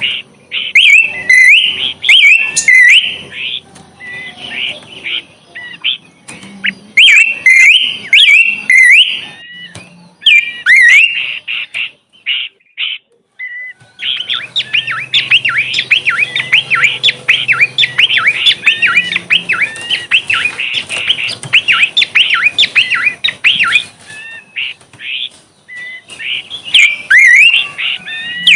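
Songbird singing: rapid runs of chirps and whistled notes. There is a short break about halfway, then a long, unbroken stretch of fast chattering song.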